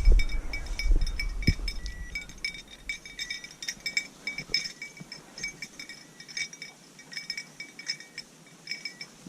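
A small bell tinkling in short, irregular jingles, the kind worn on a pointing dog's collar as the dog moves through the field. Low wind rumble is heard over the first few seconds.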